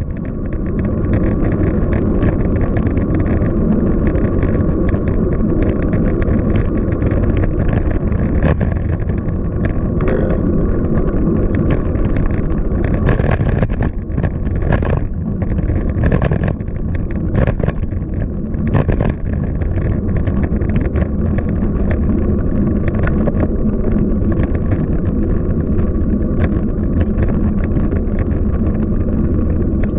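Steady rumble of wind on the microphone and road noise while riding a bicycle through city traffic, with frequent short clicks and knocks.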